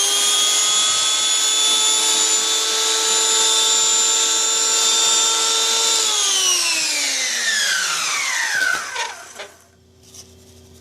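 Skil 100 electric hand planer running free, not cutting: a loud, steady high whine. About six seconds in it is switched off, and the whine falls in pitch as the cutter head winds down over about three seconds.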